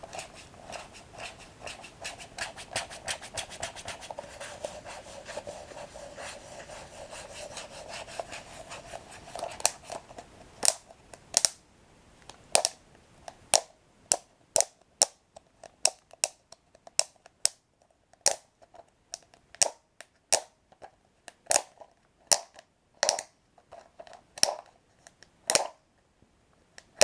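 Close-up crunching of toasted breadsticks being chewed. A dense run of small crunches fills about the first ten seconds, then slower, sharper single crunches come about once a second.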